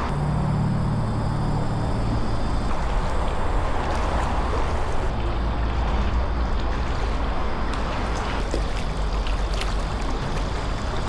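Kayak being paddled: water splashing and trickling around the paddle and hull, with a few sharper splashes in the second half, over a steady low rumble.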